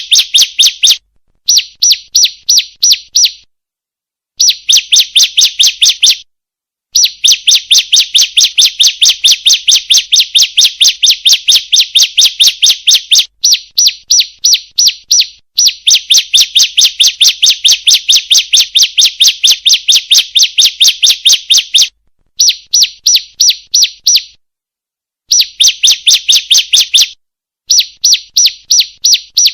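Female bar-winged prinia (ciblek) calling: a rapid series of sharp, high chirps, several a second, in runs of a few seconds broken by short pauses.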